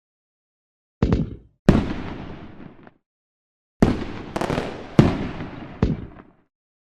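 Fireworks going off: two loud bangs about a second in, then after a short gap a quicker run of four more, each followed by a trailing rumble that dies away before the next pause.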